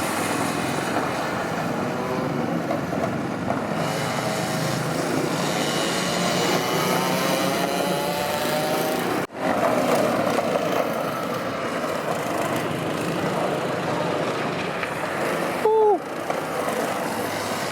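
Motorcycle and ATV engines revving and riding past, their pitch rising and falling. The sound cuts out briefly about nine seconds in.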